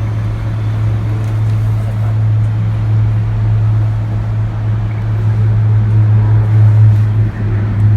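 Steady low hum and rumble of a moving cable car gondola, heard from inside the cabin.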